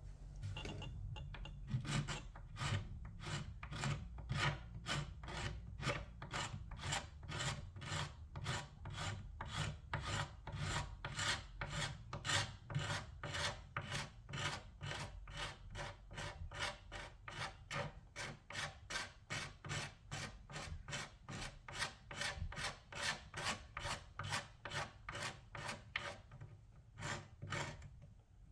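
Old paint and finish being worked off wood by hand: a tool rubbed over the surface in quick, even strokes, about two to three a second, with a brief pause near the end.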